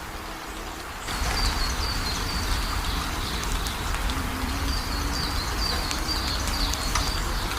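Heavy rain falling steadily, turning suddenly louder about a second in. Over it, an animal gives a run of short, high chirps over and over.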